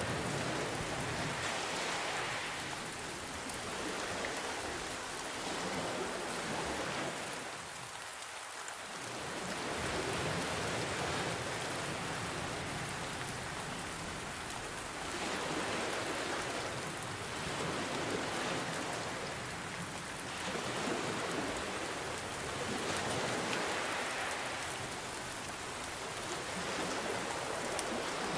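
Steady rain mixed with ocean waves, an even hiss that swells and eases every few seconds as the waves come in.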